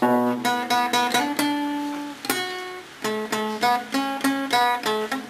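Acoustic guitar playing an instrumental introduction, a quick run of plucked notes and chords, with a short lull a little past two seconds in.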